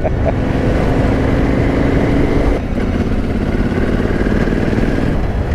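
Yamaha Ténéré 700's 689 cc parallel-twin engine running under way, with a brief dip in its note about two and a half seconds in before it picks up again.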